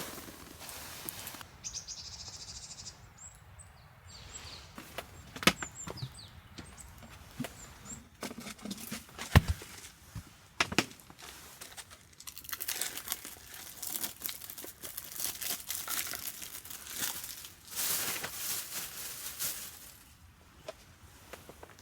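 Hands handling things: scattered clicks and knocks with one sharp knock near the middle, then several seconds of rustling and crinkling in the second half.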